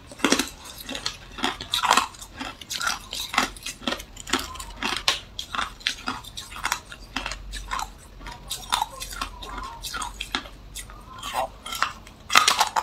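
Hard clear ice being bitten and chewed close to the microphone: irregular sharp crunches and cracks, with a loud burst of crunching near the end.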